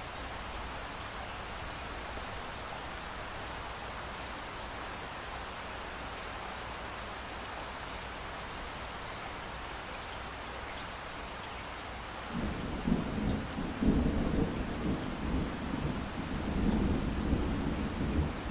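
Steady rain hiss. About twelve seconds in, a low rumble of thunder sets in and rolls on, swelling and fading, louder than the rain.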